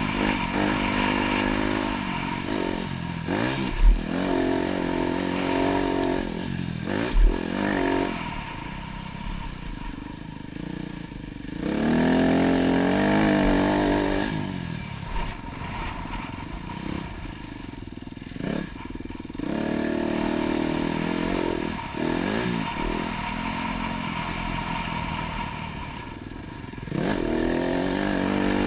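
Dirt bike engine revving up and dropping back again and again as it is ridden around a motocross track, with two sharp thumps about four and seven seconds in.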